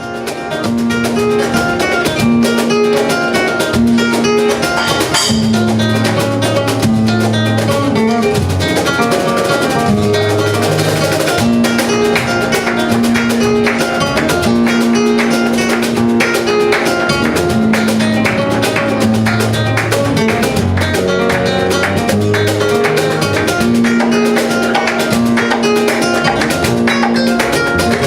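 Flamenco guitar music played live: rapid plucked and strummed notes over held low notes.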